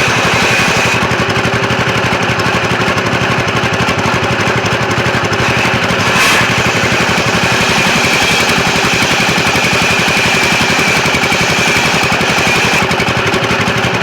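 Sawmill machinery running steadily, with a fast, even engine-like pulsing and a high whine over it, and a brief hiss about six seconds in.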